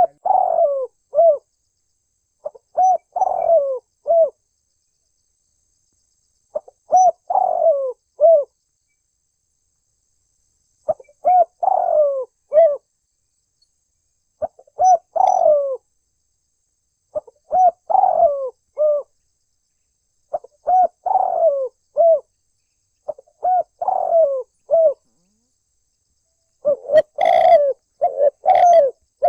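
Spotted dove (tekukur) cooing: a phrase of several low coo notes, repeated about every three seconds, nine times. Near the end the coos come closer together and run into one another.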